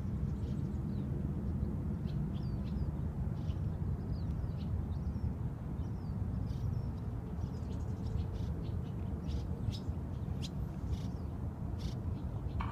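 Birds chirping, short high calls scattered throughout and busier in the second half, over a steady low rumble.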